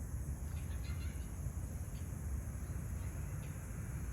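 Crickets trilling steadily in a high, continuous band over a low, steady rumble.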